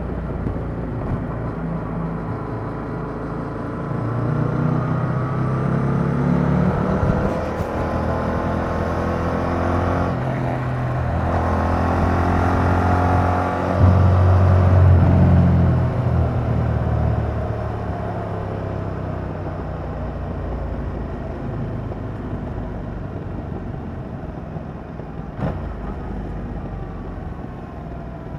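Yamaha MT-07's 689 cc parallel-twin engine through its stock exhaust, on the move: the engine note climbs in pitch with the revs several times as the bike accelerates through the gears, loudest about halfway through, then settles to a steadier cruising note. A brief sharp click comes near the end.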